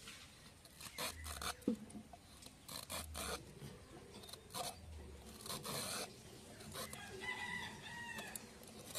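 Repeated scraping strokes of a bottle gourd being peeled, one every second or two. A rooster crows once near the end, about a second and a half long.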